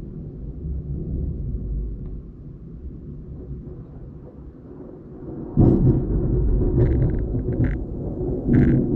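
Thunder: a low rolling rumble, then a sudden louder clap about halfway through, followed by rumbling with a few sharp crackles.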